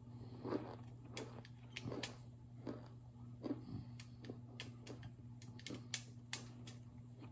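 Chewing a mouthful of baked cornstarch brick: irregular crunches and mouth clicks, roughly one or two a second, over a steady low hum.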